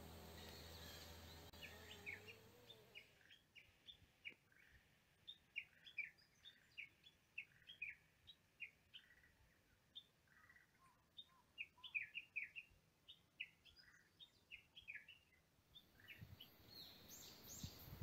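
Wild birds chirping in woodland: many short, high chirps, a few a second, over a faint background, starting about three seconds in and fading out near the end.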